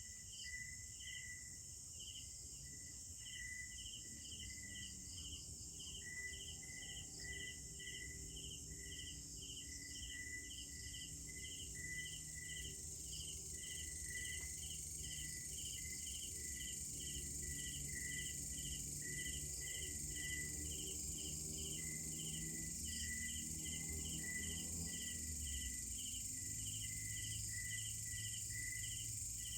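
Night chorus of crickets and other insects: even, rhythmic chirps at about two a second over a steady high-pitched shrill drone, with a faint low rumble underneath.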